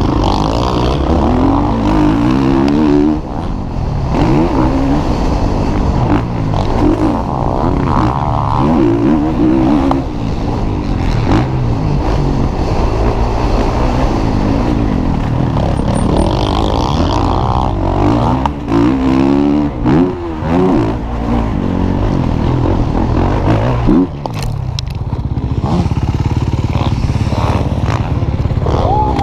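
Several motocross bikes running at once, their engines revving up and down through the gears, the pitches overlapping. There is a short lull about four-fifths of the way through before the revving resumes.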